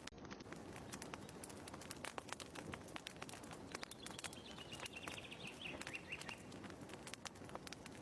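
Wood fire crackling in a fireplace, with irregular snaps and pops over a soft low rush. About four seconds in, a short chirping trill falls slightly in pitch and fades out after about two seconds.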